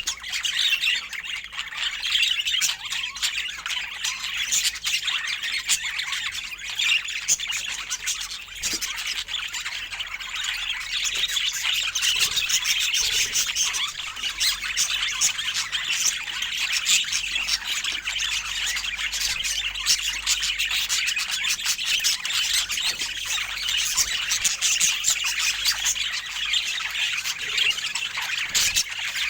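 Budgerigars chattering and warbling without a break, a dense stream of rapid squawks and chirps.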